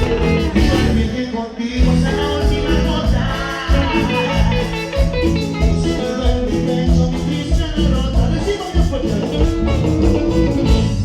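Latin American dance-band music played live: guitar over a strong bass line and a steady, evenly spaced percussion beat.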